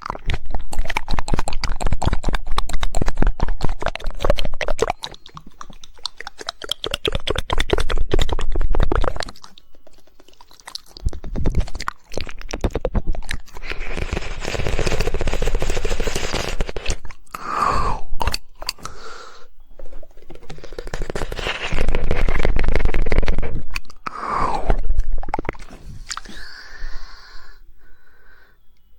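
Close-miked ASMR mouth sounds: very rapid, 'woodpecker'-style tongue clicking for roughly the first nine seconds, then wet mouth and lip sounds.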